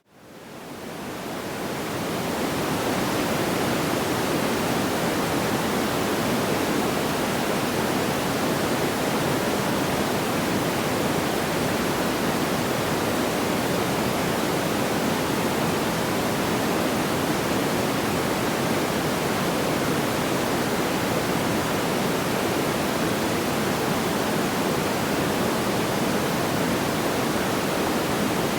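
Steady, even rushing noise like pink noise, without distinct crackles or pops, fading in over the first two seconds from a brief dip to near silence.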